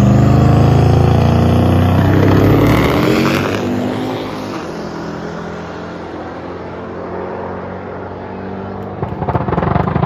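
Twin-turbo LS V8 drag car running hard down the strip, its exhaust loud for the first few seconds and then fading as it pulls away. A short burst of crackling comes near the end.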